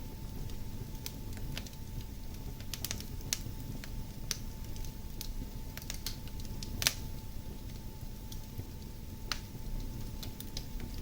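Fire crackling in a fireplace: irregular sharp snaps and pops over a low steady rumble of the flames, with one louder pop about seven seconds in.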